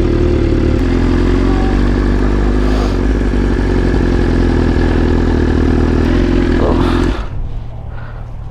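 BMW S1000RR's inline-four engine running steadily, then shut off sharply about seven seconds in.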